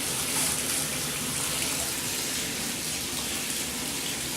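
Bathtub tap running steadily, water splashing into the tub.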